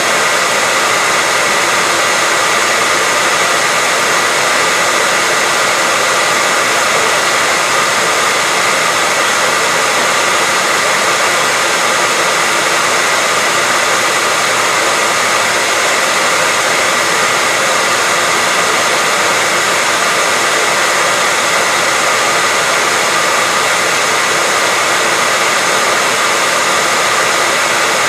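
Hair dryer running steadily: a constant loud blowing hiss with a steady high whine, unchanging throughout, played as white noise.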